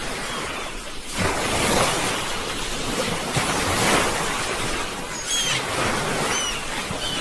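Sea waves washing and breaking on a shore, a steady rush that swells up about a second in and surges again a few seconds later. A few short, high chirps come in near the end.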